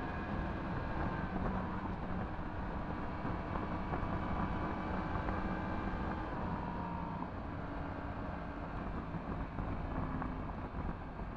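Yamaha MT-10 SP's crossplane inline-four engine running under way through an Akrapovič exhaust, with wind noise over the microphone. The engine note shifts a little in pitch as the throttle changes and eases slightly in the second half.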